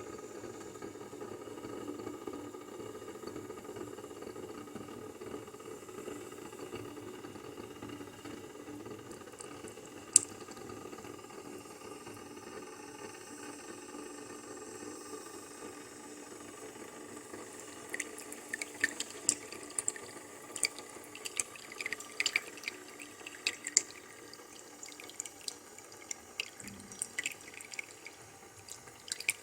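Koenig Karat espresso maker brewing: a steady hum and hiss, a single sharp click about a third of the way through, then from about two-thirds through, irregular spitting and dripping as the coffee sputters out.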